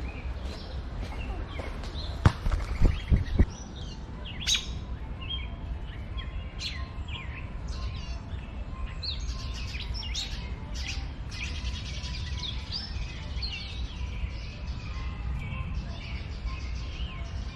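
Several small birds chirping and calling in quick, overlapping short notes. A steady low rumble lies underneath, and a few sharp knocks come about two to three and a half seconds in.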